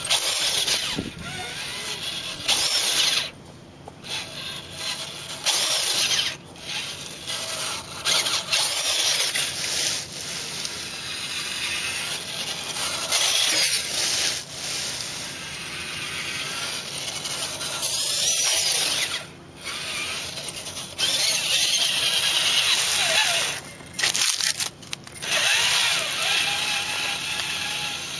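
Traxxas Titan 550 12-turn brushed electric motor and drivetrain of an RC crawler buggy whining under throttle, the pitch rising and falling as the throttle is worked. It stops briefly several times as the throttle is let off.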